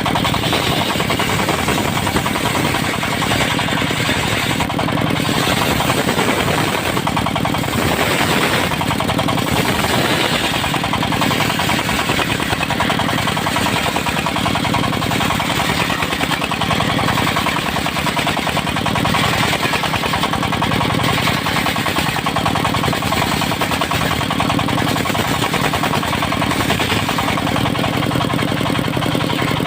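Engine-driven mobile circular sawmill running steadily, the engine a fast, continuous pulsing chug, with a brighter hiss higher up that swells and fades every few seconds.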